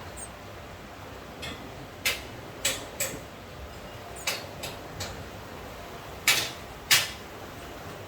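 Steady rain hiss, broken by about nine irregular sharp taps and knocks, the loudest a little past two seconds in and twice near the end.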